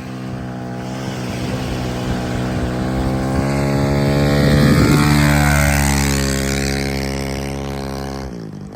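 An engine passing by with a steady droning tone, growing louder to a peak about five seconds in and then easing off.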